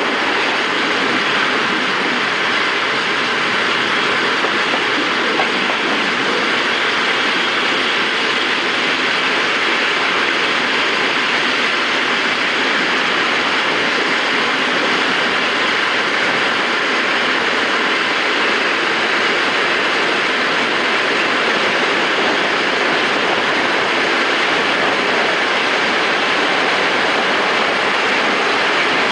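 Electric regional train running at speed, heard from an open carriage window: a steady rush of air over the microphone mixed with wheel-on-rail noise.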